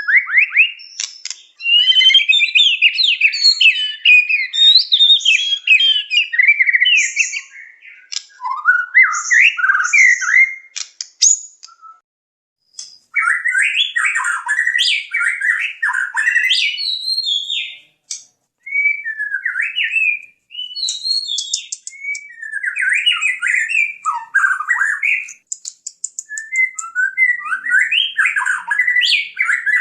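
White-rumped shama (murai batu) in full 'gacor' song: fast, varied whistled and chattering phrases that glide up and down. The song comes in runs of a few seconds, with short pauses about twelve and eighteen seconds in.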